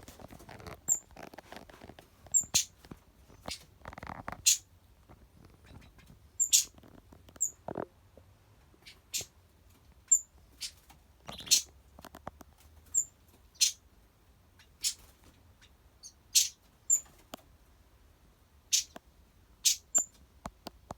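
Short, sharp high chirps and clicks from a small animal, coming irregularly about once a second, some louder than others.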